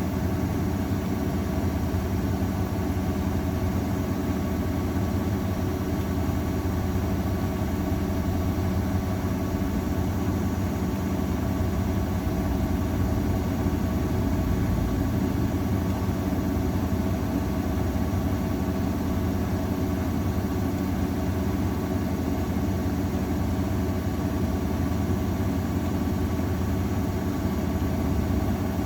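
AEG Öko-Lavamat 693 washing machine in its final spin, the drum turning at a steady speed with an even motor hum and no pauses.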